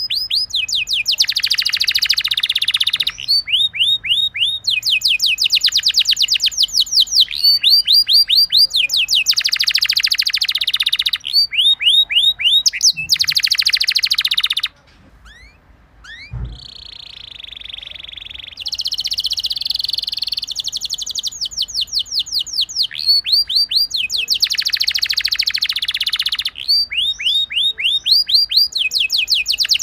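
Domestic canary singing, long rolling song of fast trills: phrase after phrase of rapidly repeated sweeping notes alternating with buzzy rolls. About halfway through the song breaks off briefly, then resumes.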